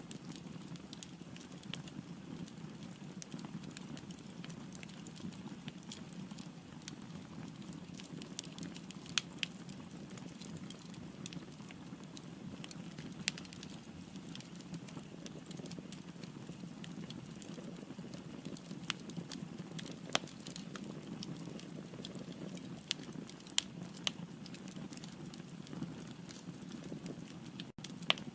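Firewood burning in a fireplace: a steady low rush of flame with scattered sharp crackles and pops, a few of them louder snaps.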